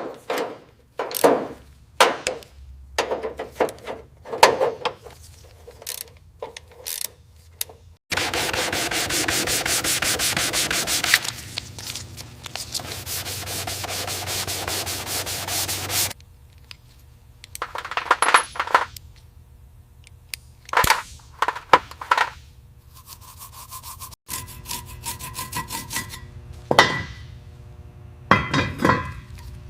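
Hand work on an old car body: a series of short scrapes, rubs and knocks, with a steady rubbing, sanding-like noise that lasts about eight seconds in the middle.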